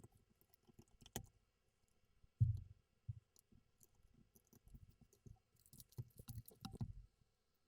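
LEGO plastic pieces being handled and clicked together, with scattered small clicks and a few soft low thumps, the loudest about two and a half seconds in.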